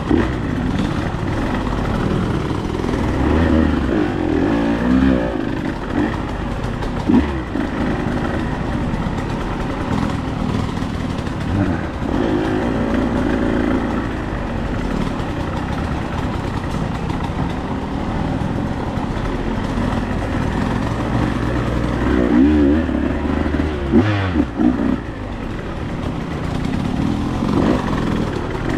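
Dirt bike engine running under way, its pitch rising and falling again and again as the throttle is opened and closed, with a few sharp knocks along the way.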